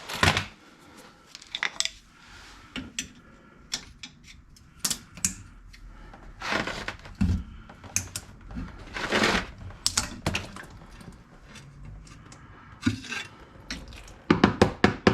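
Hand tools and loose metal parts clinking and scraping in irregular, separate knocks, with a quick run of clicks near the end, while the rear differential of a 1989 Camaro IROC-Z is being opened up.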